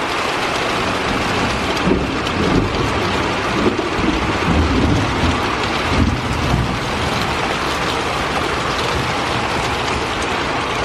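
Heavy rain pouring down in a thunderstorm, a steady loud hiss, with a low rumble swelling through the middle of it.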